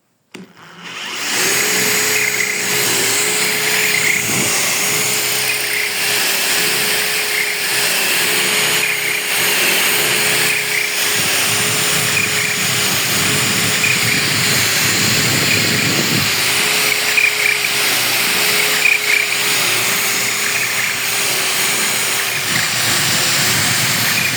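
ESA bandsaw blade sharpener switching on and running, its electric motor and cam-driven feed mechanism going in a steady, regular repeating cycle. It is running with a newly fitted 3D-printed PLA cam gear.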